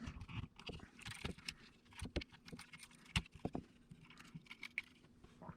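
Faint, irregular small clicks and taps of small parts on the Mavic Air 2 drone's plastic body being handled and fitted, several a second, dying away near the end.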